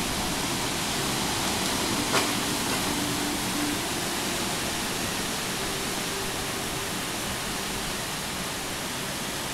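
Heavy downpour of rain, a dense steady hiss, with one sharp click about two seconds in.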